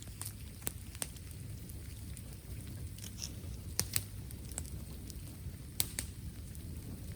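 Bamboo fire crackling: scattered sharp pops and snaps at irregular intervals over a low steady rumble.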